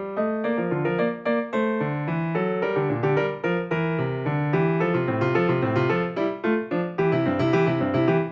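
Background piano music, a running line of notes over a moving bass.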